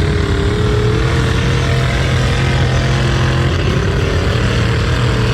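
Truck engine running hard at high, fairly steady revs, with a slight rise in pitch at the start.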